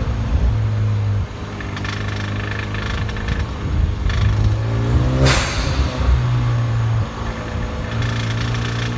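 Turbocharged 2.0-litre four-cylinder engine of a Hyundai Genesis Coupe 2.0T R-Spec running, revved up gently about four seconds in and ending with a short hiss as it drops back. The owner questions a knock in it as possible engine knock.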